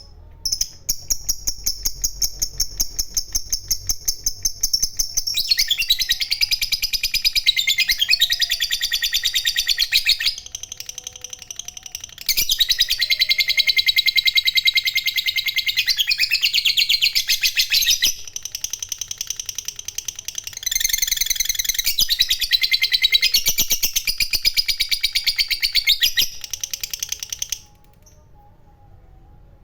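Lovebird giving a long 'ngekek' chatter: fast runs of high-pitched rattling notes in long bouts, broken by a short softer pause around the middle, stopping about two seconds before the end.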